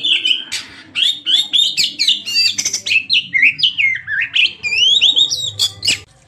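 Oriental magpie-robin (kacer) singing a fast, varied song of gliding whistles mixed with harsh chattering notes, stopping suddenly near the end.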